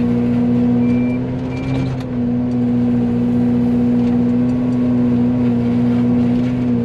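Excavator engine and Fecon forestry mulcher head running at full spool, a loud steady mechanical drone with a held hum.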